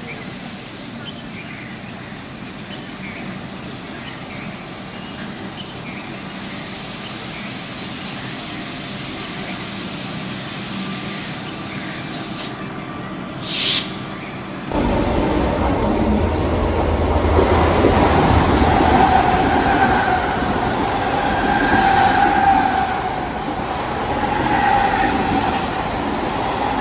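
A diesel multiple unit (DEMU) train draws into a station with a low running rumble and a thin high squeal. Near the middle there are two short sharp sounds. About halfway through, the sound cuts abruptly to a louder electric suburban local train (EMU) rushing past a platform, with its wheels rumbling and squealing.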